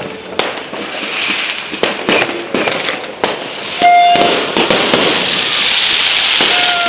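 Fireworks and firecrackers going off: a string of sharp bangs, then from about four seconds in a loud, dense crackling that builds.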